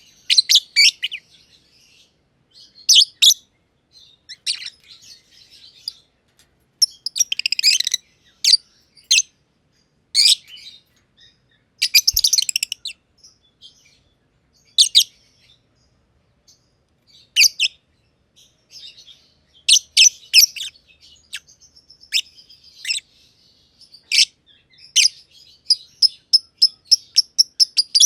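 Masked lovebirds (Agapornis personatus) chirping: short, sharp high-pitched calls in scattered bursts with pauses between, coming fast and close together near the end.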